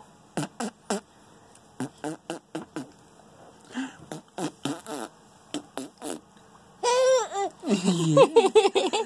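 A man blowing raspberries with his lips to make fart noises: a dozen or so short sputters, singly and in quick pairs. From about seven seconds in, a baby answers with loud, high squeals and babbling that rise and fall in pitch.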